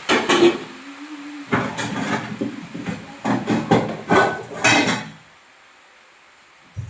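Kitchen clatter: a quick run of knocks and clinks from pots and utensils being handled, stopping about five seconds in.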